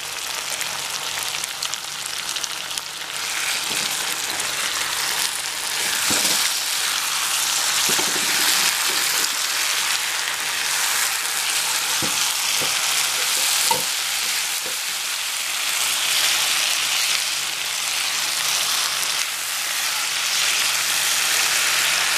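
Chicken pieces in masala frying in a nonstick pan, a steady sizzle as the last of the cooking water boils away. A wooden spatula stirs through it, with a few short knocks and scrapes in the middle.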